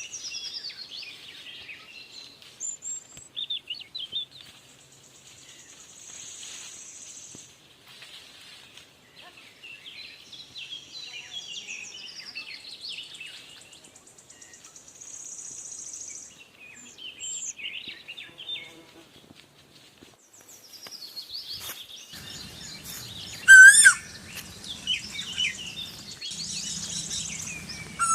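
Several small birds chirping and twittering, with buzzy trills, and a loud wavering call rising in pitch about 23 seconds in and again at the end.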